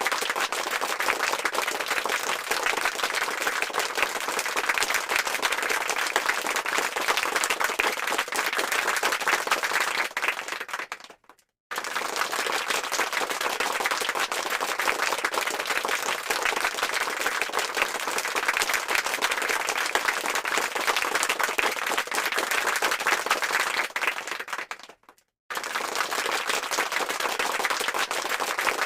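Applause sound effect: a crowd clapping densely and steadily. It fades out about eleven seconds in, drops to silence for a moment, then starts again, and does the same again near the twenty-five-second mark.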